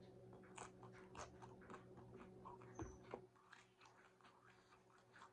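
Faint chewing of a mouthful of taco, with small crunches at an uneven pace that thin out after about three seconds, over a steady low hum.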